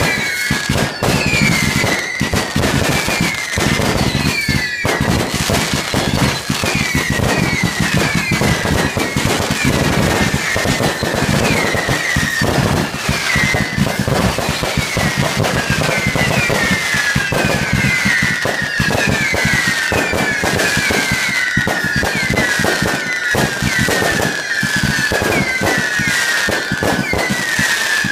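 Firework display: a continuous barrage of bangs and crackles, overlaid with many whistling fireworks whose whistles fall in pitch, one after another.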